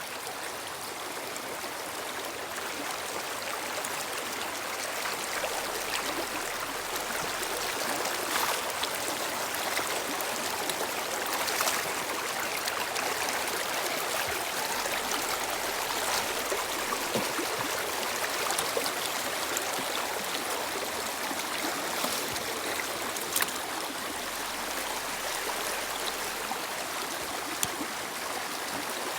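Flowing river water: a steady rush and babble, with an occasional brief click.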